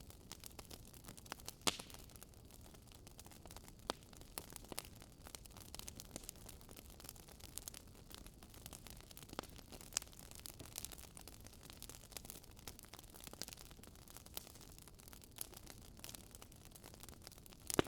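Wood fire burning in a fireplace, crackling with irregular sharp pops and snaps over a low steady hiss; one louder pop near the end.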